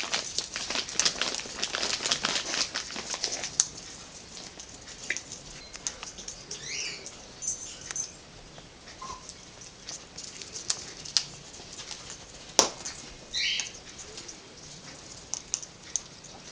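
African grey parrot cracking and nibbling a peanut shell with its beak: rapid sharp clicks and crunches for the first few seconds, then sparser clicks, with a few short soft chirps in between.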